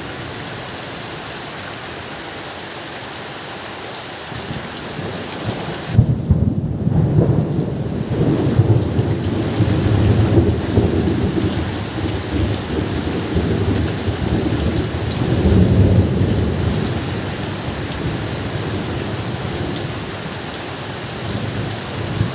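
Steady rain falling, with a thunderclap about six seconds in that rolls on as low rumbling, swelling again twice before it fades.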